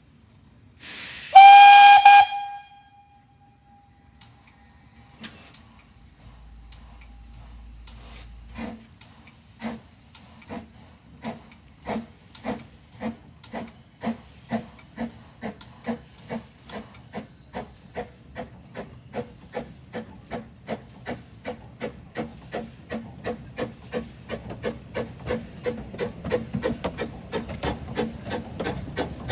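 Narrow-gauge steam locomotive blows its whistle once, a short loud blast, then sets off with exhaust chuffs that start slow and steadily quicken as it gathers speed.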